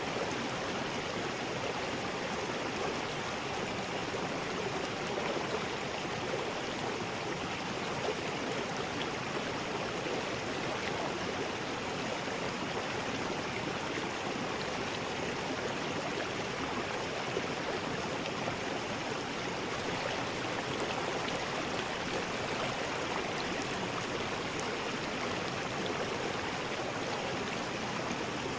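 River rapids: water rushing over rocks in a steady, even roar, with small splashes now and then.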